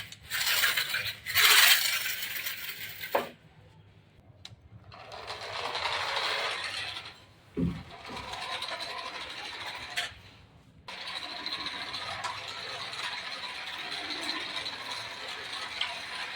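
Hard plastic toy vehicles rattling, clinking and scraping as they are handled and set down, with a few sharp clicks. Then, from about two-thirds of the way in, a remote-control toy vehicle's small electric motor and plastic gears run steadily with a thin whine.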